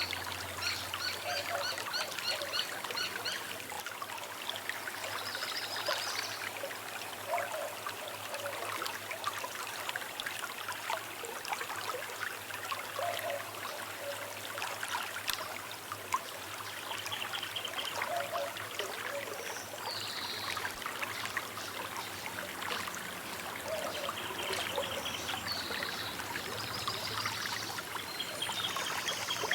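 A small river running and trickling steadily, with birds calling over it: a quick series of high chirps near the start and more high calls later, and a lower call repeated every five or six seconds.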